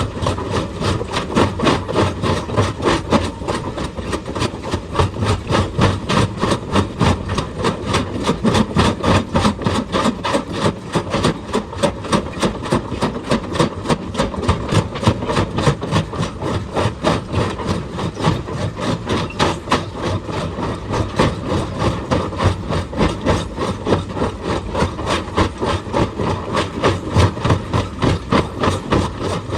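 Hydraulic rock breaker on an excavator hammering stone in a rapid, steady run of blows, several a second, over the excavator's engine running.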